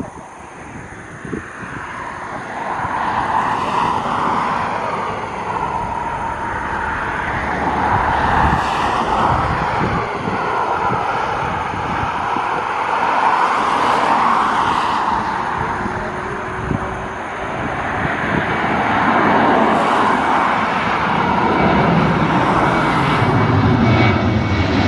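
Ryanair Boeing 737's jet engines running loud, building up from about two seconds in, with a deepening rumble near the end.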